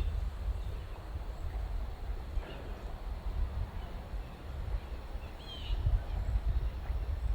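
Birds calling now and then outdoors, with short chirps about two and a half and five and a half seconds in. Beneath them runs a steady low, fluttering rumble of wind on the microphone.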